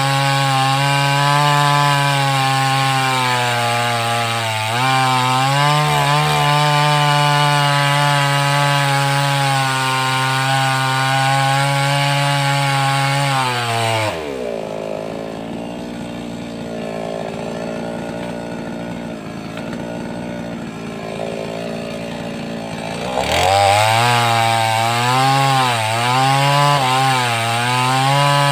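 588X gasoline chainsaw cutting wood at full throttle, its pitch dipping briefly under load. About 14 seconds in it drops to idle for several seconds. Near 23 seconds it revs back up, and its pitch wavers as it cuts again.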